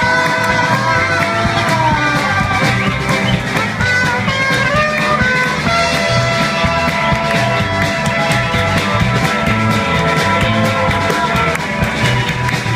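Live rock band playing an instrumental passage, with held guitar or keyboard lines over a steady drum beat and bass.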